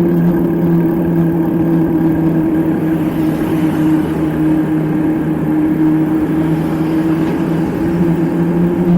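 Motorcycle engine running steadily while riding, its pitch easing down a little in the middle and rising again near the end.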